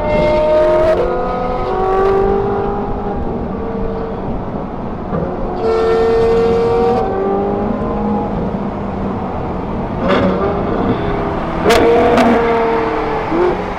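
Ferrari 458 Italia's V8, heard from inside its cabin, and Ferrari F12's V12 running hard through Kline Innovation exhausts, their engine notes rising and stepping with gear changes. A few sharp cracks come near the end as the F12 draws alongside.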